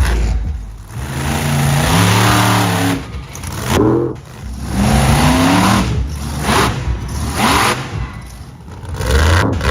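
Monster truck engine revving hard in repeated bursts, the pitch climbing and dropping several times.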